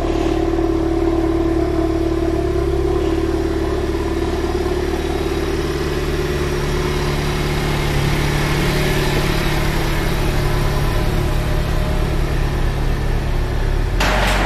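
Honda Civic Type R's turbocharged 2.0-litre four-cylinder engine running steadily at idle through its Remus exhaust. Near the end a short clattering burst cuts in.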